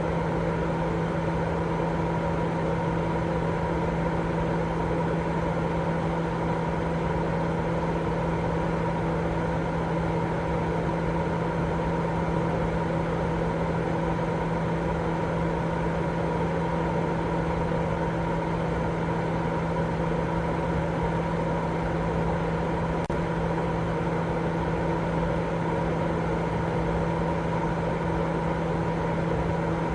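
Continuous sleep white noise: an unbroken, even rushing noise with a low steady hum running through it and no change in level.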